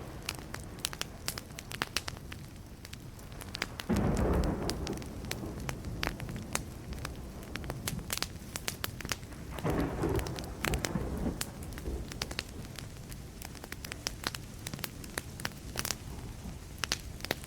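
Wood campfire crackling and popping steadily, with distant thunder rumbling twice: once starting suddenly about four seconds in, and again about ten seconds in, each rumble fading away.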